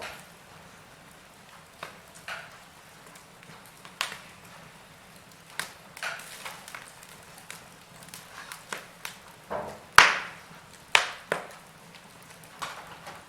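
Wood fire burning in a fireplace: irregular sharp crackles and pops from the burning logs over a faint steady hiss, the loudest pop about ten seconds in.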